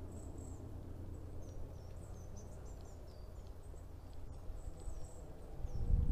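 Small birds calling in pine woods, many short high chirps that fall in pitch, over a steady low rumble of wind on the microphone. A louder low thump comes near the end.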